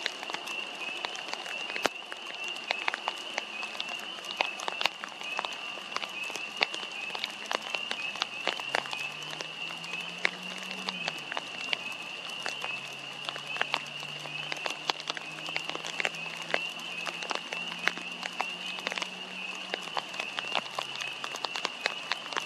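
Raindrops tapping irregularly on a poncho draped over the camera, many sharp ticks a second, with a steady high-pitched trill behind them.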